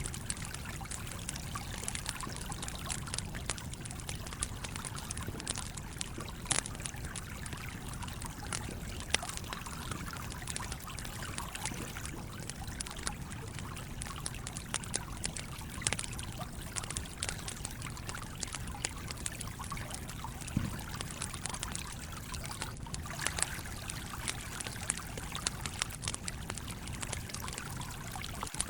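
A stream running steadily, with a campfire crackling over it in sharp, irregular pops and snaps.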